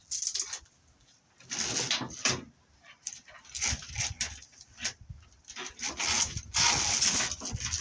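Spiral metal armor of BX cable rattling and scraping in irregular bursts as lengths are pulled apart from a tangled pile and sorted by hand.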